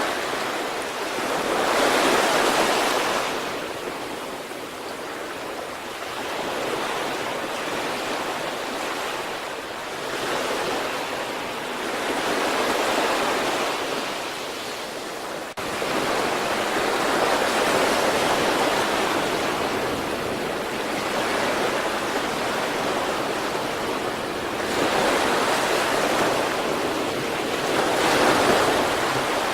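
Sea waves breaking and washing on the shore, the surf swelling and falling back every few seconds in a steady rush, with a brief sudden dropout about halfway through.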